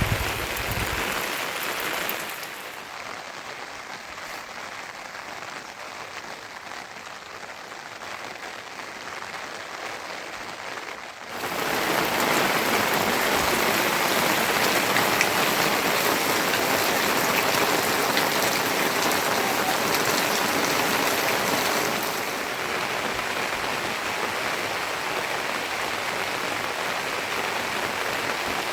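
Steady rain falling, an even hiss. It turns softer about two seconds in and louder again about eleven seconds in.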